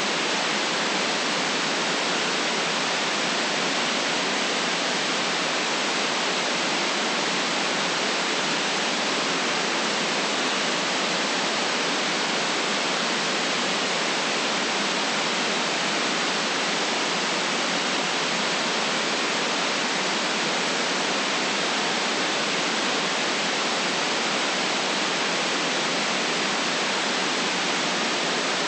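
Steady, unchanging hiss of white noise, cut off below the deep bass and above the highest treble.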